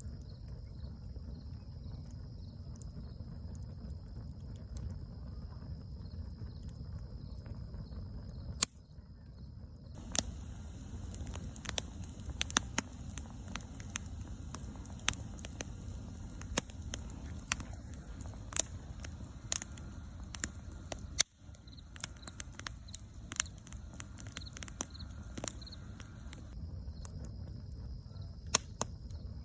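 Bonfire crackling, its burning wood giving off many sharp snaps and pops over a steady low rumble. The popping is densest through the middle.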